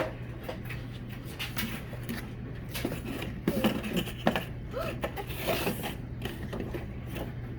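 Parts of a Dyson V8 cordless vacuum and their packaging being handled: scattered clicks, scrapes and rustles over a steady low hum.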